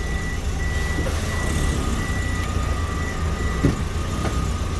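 Toyota Vitz 2NZ-FE 1.3-litre four-cylinder engine idling evenly, with a repeating in-car warning beep, about six beeps, that stops with a small click about three and a half seconds in.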